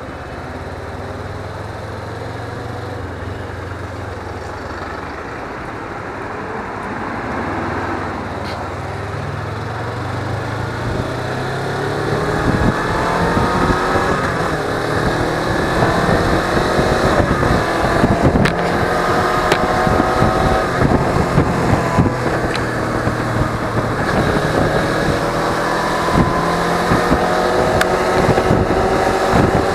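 Suzuki V-Strom 250 motorcycle's parallel-twin engine running on the road. Its note is low and steady at first, then from about eleven seconds in it climbs in pitch several times as the bike accelerates, while wind buffeting on the action-camera microphone grows louder.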